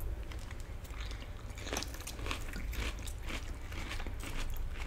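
Close-up chewing of crisp lettuce salad: a run of irregular crunches.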